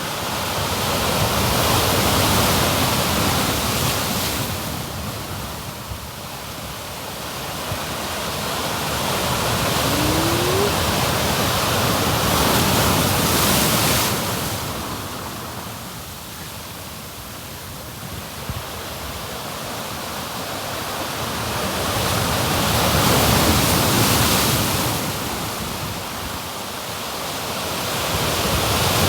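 Ocean surf washing against the shore below, a steady rushing that swells and fades in slow surges about every ten seconds.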